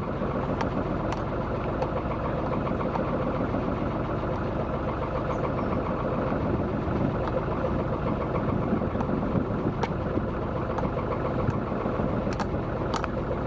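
A Macwester sailing yacht's engine running steadily at low speed while motoring, with a few faint clicks.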